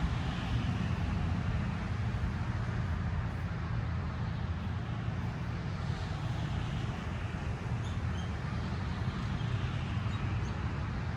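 Ocean surf washing in, a steady low rumble with a hiss that swells and eases every few seconds.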